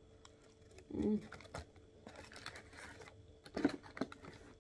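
Close-miked chewing of a mouthful of burger, with wet mouth clicks and smacks. There is a short hummed "mm" about a second in and a louder smack near the end.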